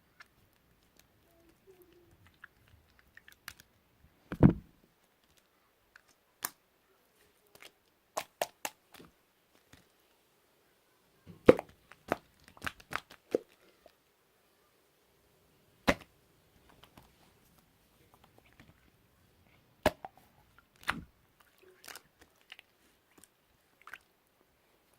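Slime being squeezed and poked by hand, giving irregular sharp pops and crackles, a few of them much louder, between quiet stretches.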